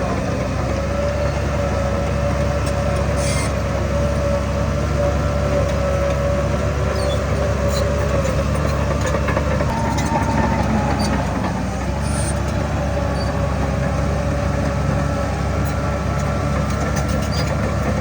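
Heavy diesel earthmoving machinery running steadily, a deep engine drone with a couple of brief sharp clanks.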